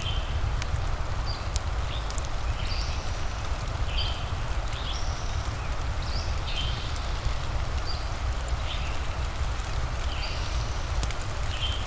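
Steady rain with the occasional sharp crackle of a wood fire, and short high animal chirps repeating about once a second.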